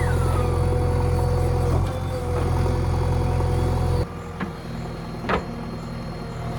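Diesel engine of a JCB 3DX backhoe loader running steadily. About four seconds in it suddenly becomes quieter, and a couple of brief sharp sounds follow.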